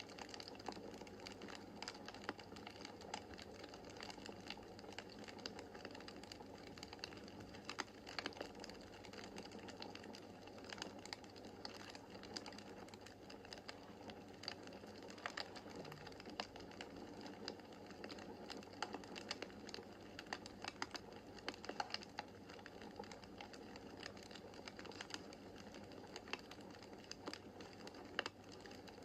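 Wood fire in a fireplace crackling, with irregular small pops and snaps over a faint steady hiss.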